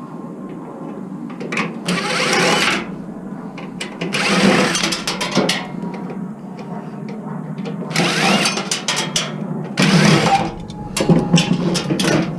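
Cordless drill-driver run in about five short bursts, its motor whine rising as it spins up, with sharp clicks of handled metal parts in between: screws being backed out of scrap electronics.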